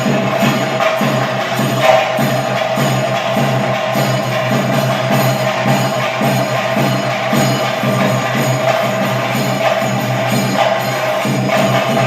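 Kerala temple ritual percussion: drums with jingling small hand cymbals, played fast and without a break.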